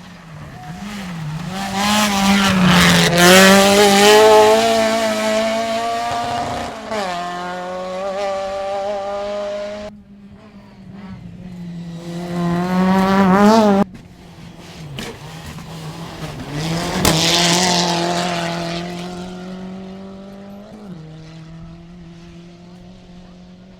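Two-wheel-drive rally cars running hard at speed: engines revving up through the gears, the pitch climbing and dropping at each shift, with some tyre squeal. The sound cuts off suddenly twice, about ten and fourteen seconds in, between separate runs.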